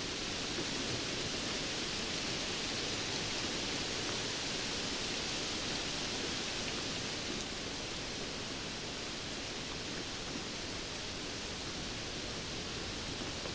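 Steady rainfall: a dense, even hiss of drops with faint ticks of single drops, easing slightly about halfway through.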